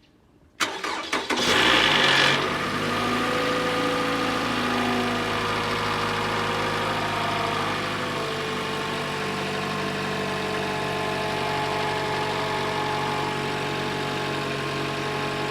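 Toyota 2AR-FE 2.5-litre inline-four cold-started after sitting unused for a week: the starter cranks briefly about half a second in, the engine catches and flares up in revs, then settles into a steady idle.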